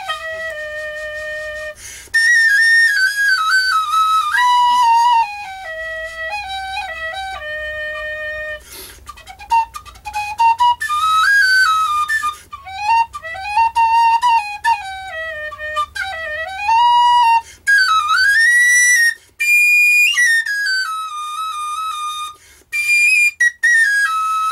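Solo Bhairav flute playing a Middle Eastern-style melody, snake-charmer-like, with pitch bends, slides and held notes over a faint low drone.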